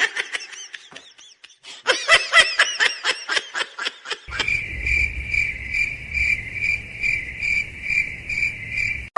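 A quick run of short, high-pitched squeaky calls, then from about four seconds in a cricket chirping steadily, about two chirps a second, over a low rumble.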